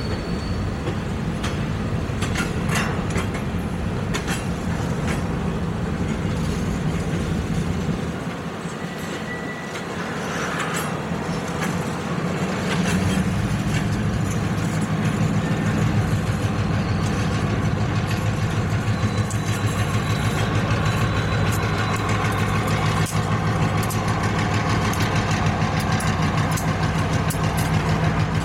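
Freight train of covered hopper cars rolling slowly past, with rumbling and scattered clicks from the wheels on the rails. From about halfway through, the steady low drone of a diesel locomotive engine joins in and grows louder as the Union Pacific locomotive approaches.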